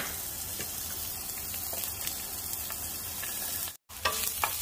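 Sliced shallots sizzling steadily in hot oil in a nonstick frying pan, being sautéed. The sound cuts out for a moment near the end, then a spatula clicks against the pan a few times as the shallots are stirred.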